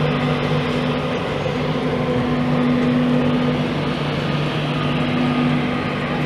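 Diesel train engine idling, a steady low drone with a constant hum.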